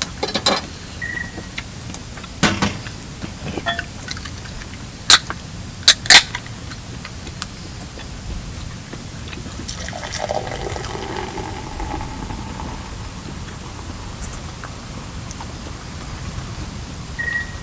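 A few sharp clinks and knocks, like camp cookware being handled, then liquid being poured for a couple of seconds about ten seconds in.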